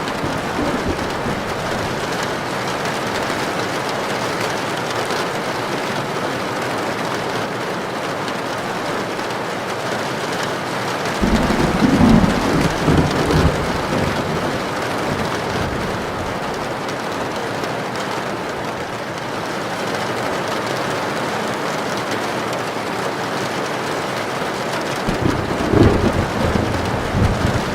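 Heavy rain falling steadily on a tin roof, a constant hiss. Thunder rumbles twice, once about eleven seconds in for a few seconds and again near the end.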